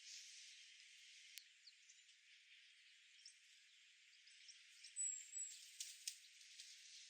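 Faint outdoor hiss with a few light clicks and one brief high bird chirp about five seconds in.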